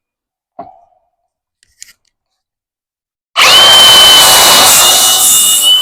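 A couple of faint clicks, then about three and a half seconds in an angle grinder starts up and runs loudly with a steady high whine over a hiss.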